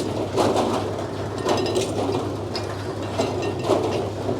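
Sawmill machinery running with a steady low hum, with several sharp metallic clanks and knocks as a log cant is handled and shifted on the carriage.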